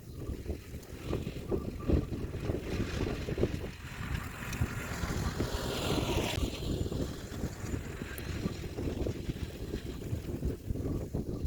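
Kioti DK4710SE tractor's diesel engine running while it pulls a landscape rake, mostly buried under wind buffeting the microphone. A hiss swells toward the middle and then falls away.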